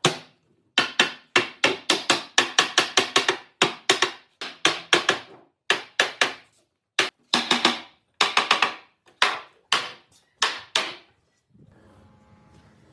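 A rapid series of sharp knocks, coming in irregular quick clusters, which stops about eleven seconds in.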